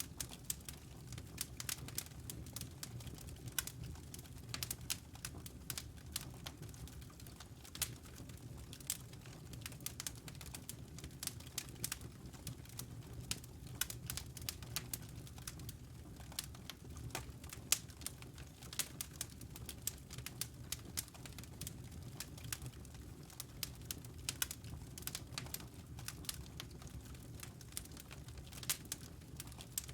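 Campfire crackling: irregular sharp snaps and pops, several a second, over a steady low rumble of burning wood.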